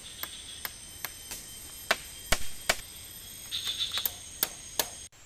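Irregular sharp clicks and ticks, about two a second with a quick cluster near the four-second mark, over a steady high-pitched hum; it all cuts off abruptly just before the end.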